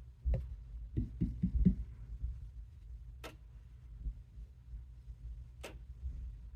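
Handling noise from a knife-sharpening angle guide being fitted to a knife: a cluster of soft knocks in the first two seconds, then two single sharp clicks, about three and five and a half seconds in.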